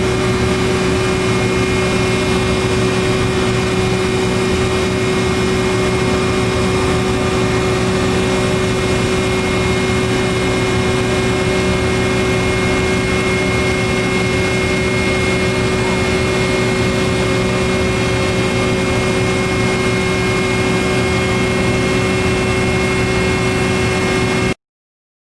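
Temporary power-plant mega-generator running at steady load: a loud, even machinery drone with a steady high whine over it. It cuts off suddenly near the end.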